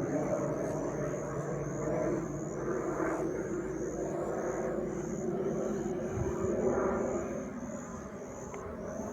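Aircraft engine noise from a passing aircraft, a steady rush with slowly sweeping bands that dips about eight seconds in. A high, thin chirp repeats about twice a second throughout.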